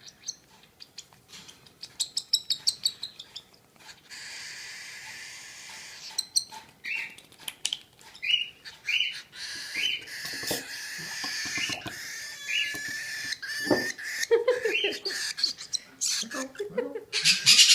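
Baby cockatiel chick begging while being handfed: a fast run of chirps, then raspy hissing and a string of short rising begging calls about one a second, with a few louder squawks near the end.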